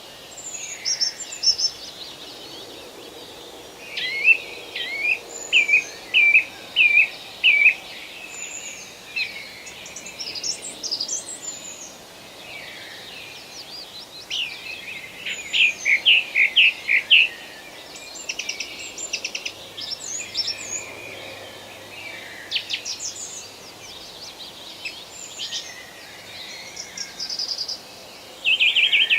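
Several songbirds singing and calling in forest, in bursts of short chirps and whistled phrases, over a faint steady background hiss.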